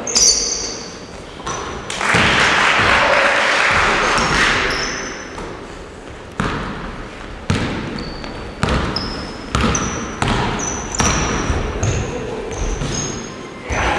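Basketballs bouncing on a gym floor: sharp bangs that echo through the hall, coming about once a second in the second half. Short high sneaker squeaks sound between them.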